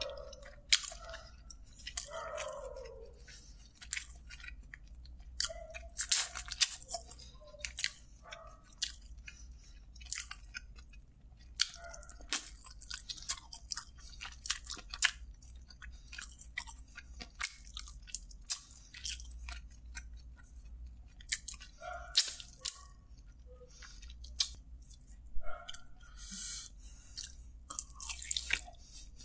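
A man biting into and chewing sauced chicken drumsticks: a steady run of sharp, irregular wet clicks and smacks from mouth and meat.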